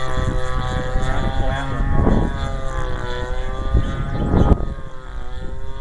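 Converted 30cc Homelite string-trimmer gasoline engine of a giant RC airplane buzzing in flight, its pitch wavering a little as the plane flies. Strong wind gusts rumble on the microphone, loudest about two and four and a half seconds in.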